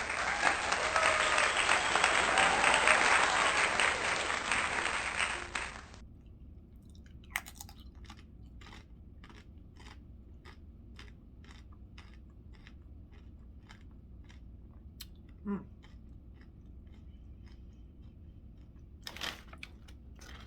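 Close-up chewing of a mouthful of chicken burrito bowl: a loud, noisy crunching for about six seconds, then quieter, even chewing clicks about twice a second.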